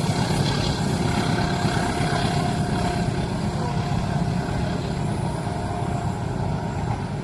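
Train running past, a steady heavy rumble with a thin steady tone running above it.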